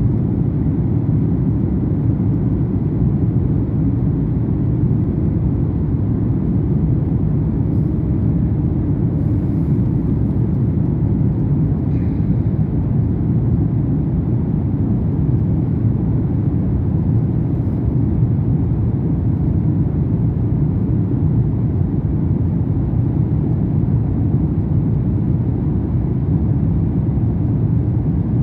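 Steady low rumble of a jet airliner heard from inside the cabin, with the engines and airflow running evenly.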